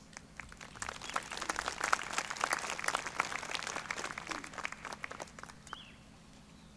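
Audience applauding. It swells over the first couple of seconds and dies away about five and a half seconds in.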